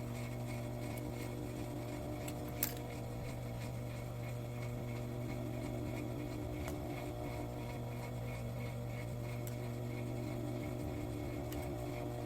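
Industrial sewing machine motor running with a steady hum, with a sharp click about two and a half seconds in.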